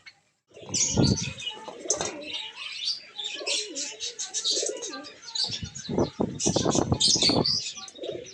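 Fancy pigeons cooing and flapping their wings, with many small birds chirping high over them. It starts about half a second in, after a short silence.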